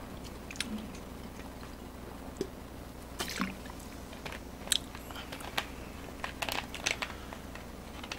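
A person chewing food close to the microphone, with scattered small clicks of the mouth over a low steady hum.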